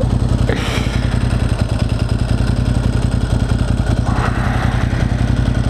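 Motorcycle engine running steadily at low revs, its pitch flat with no revving. There is a brief rush of noise about half a second in.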